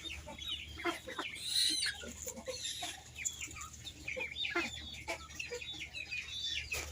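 A flock of captive purple swamphens (kalim birds) calling: many short, downward-sliding calls overlapping, several a second.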